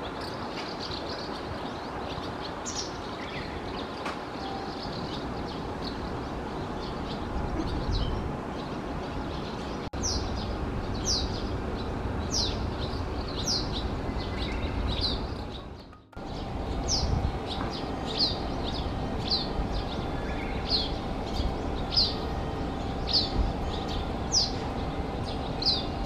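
Small birds calling: short, high chirps that sweep downward, sparse at first and then repeated about once a second, over a steady background noise that briefly drops out twice.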